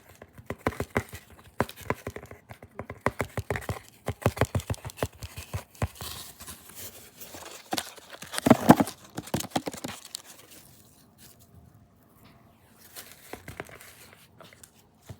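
Quick crinkling and crackling from a toy being squeezed and worked by hand, with a louder crunching stretch about eight seconds in, then softer scattered rustles.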